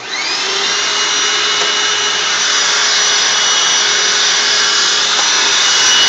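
Hoover WindTunnel Anniversary Edition bagged upright vacuum switched on: the motor whine rises quickly as it spins up, then runs at a steady, loud, high-pitched rush of air.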